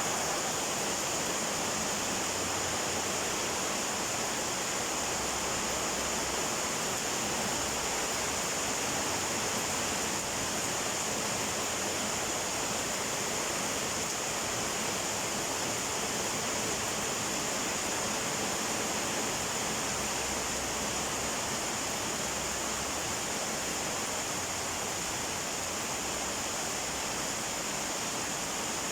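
Heavy tropical downpour: rain falling hard and without letup, a steady hiss.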